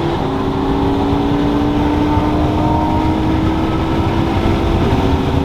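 Sports car engine running at speed on the highway, with heavy road and wind rumble. Its pitch steps down about a quarter second in, as on an upshift, then climbs slowly as the car keeps pulling.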